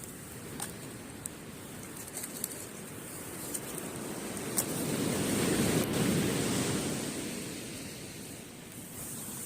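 An ocean wave washing up the beach, swelling to a peak about halfway through and then fading away. A few sharp crackles from a wood campfire pop over it.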